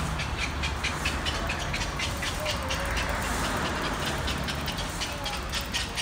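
Birds in the trees giving a fast, clicking chatter, several short high clicks a second, over a steady low rumble.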